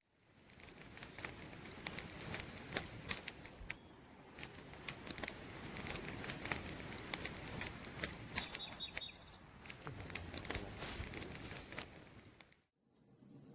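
Campfire crackling, dense irregular snaps and pops from burning wood, rising from silence at the start and dropping away shortly before the end. A few faint high chirps sound around the middle.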